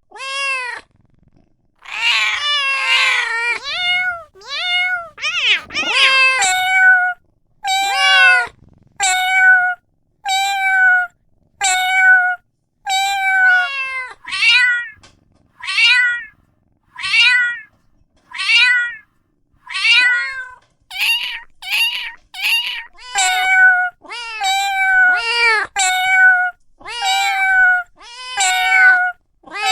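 A cat meowing over and over, about one meow a second, with several meows overlapping between about two and six seconds in.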